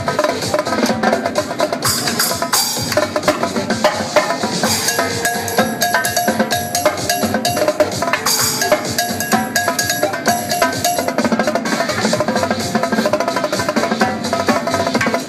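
Live drum kit, Mapex drums with Paiste cymbals, played in dense, fast rhythms over an electronic dance track, with several bright cymbal splashes.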